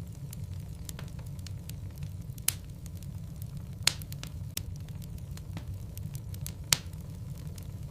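Logs burning in a fireplace, crackling with scattered sharp pops, three of them louder than the rest, over a steady low rumble.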